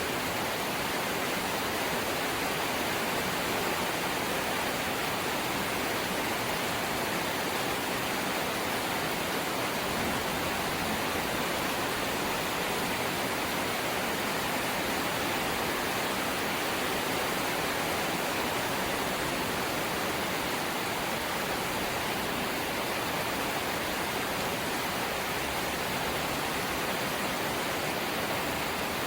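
Steady rain falling on a corrugated zinc roof: an even, dense hiss with no single drops standing out and no change in strength.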